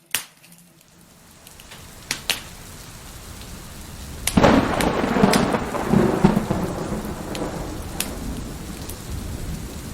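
Heavy rain with a long roll of thunder that breaks in about four seconds in and slowly fades, over scattered sharp pops of a crackling wood fire.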